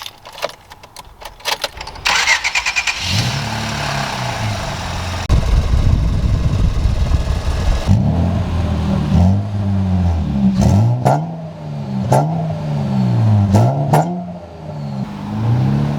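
A 2005 Acura TL's V6 engine is cranked and catches, settles into a steady run, then is revved repeatedly in short blips, its pitch rising and falling over and over.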